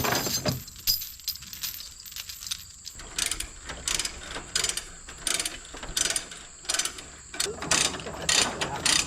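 Ratchet tie-down strap being cranked tight: repeated runs of sharp ratchet clicks, about two or three a second, starting about three seconds in.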